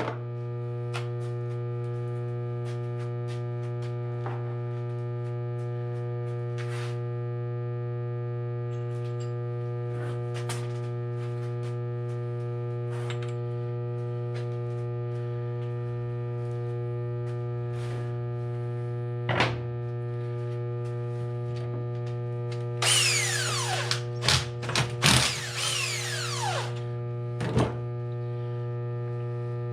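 Steady electrical hum under scattered light metal clicks and taps of hand tools on engine parts. About three quarters of the way in comes a louder clatter of metal parts with ringing, falling tones, then one more knock.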